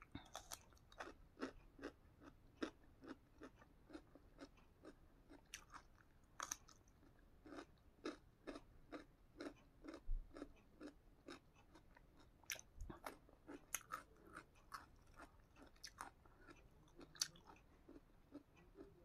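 Close-up chewing of crisp raw radish slices: a steady run of small wet crunches, about two to three a second.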